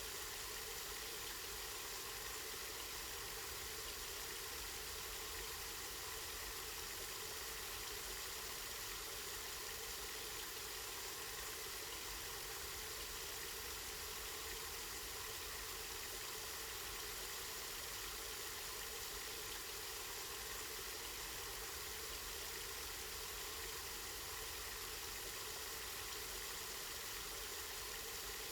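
Spring water running steadily, a constant even rushing.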